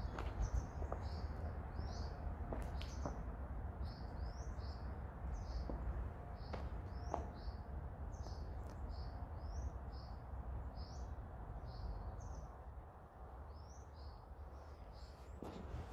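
Short, high chirps repeated about twice a second, like a small bird calling, over a steady low rumble with a few soft knocks.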